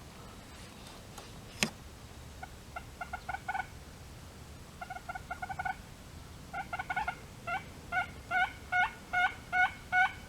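Turkey yelping: runs of short, quick notes, then single notes about two a second, getting louder near the end. A single sharp click comes just before the yelping starts.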